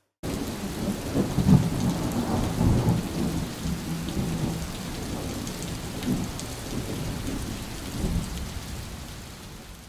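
Heavy rain with rolling thunder, a storm sound effect. The rain starts suddenly, the thunder rumbles loudest about a second and a half in and again near the eight-second mark, and the storm fades away toward the end.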